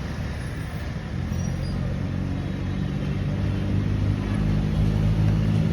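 A motor vehicle's engine running steadily, a low hum that grows a little louder toward the end.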